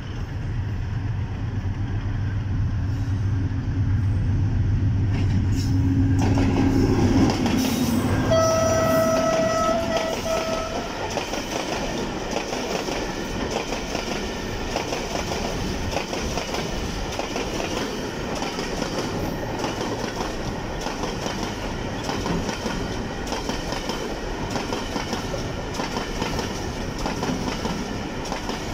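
A freight train's diesel locomotive draws near with a deep engine rumble and sounds one steady horn note for about two seconds, about eight seconds in. Then a long rake of container wagons rolls past close by, with a steady clatter of wheels on the rail joints.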